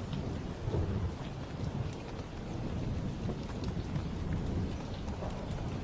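Steady rain falling, with a low rumble of thunder underneath and scattered drops tapping.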